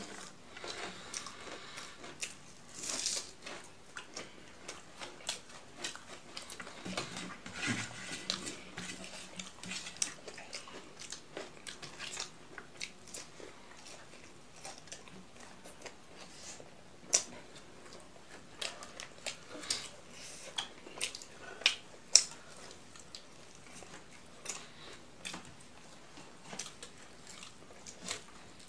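A person eating by hand: chewing and crunching food, with many irregular mouth clicks and smacks, two of them sharper than the rest past the middle.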